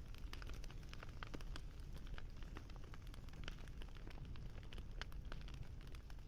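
Campfire crackling: many small, irregular pops and snaps over a low, steady rumble.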